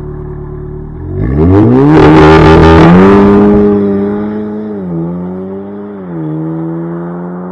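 Audi S3 8V's turbocharged 2.0-litre four-cylinder held at steady revs, then launching hard: the revs climb steeply with a loud rush of exhaust. They then hold high and drop briefly twice, about five and six seconds in, as the gearbox shifts up.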